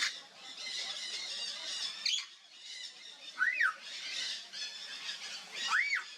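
Timneh parrot calling: two short whistles that rise and fall, one about halfway through and one near the end, over steady high chattering.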